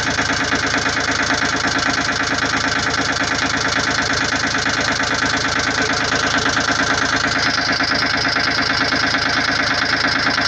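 Volvo Penta 2003 three-cylinder marine diesel running at a steady, even idle just after starting easily from nearly cold, its fuel line freshly bled of air bubbles.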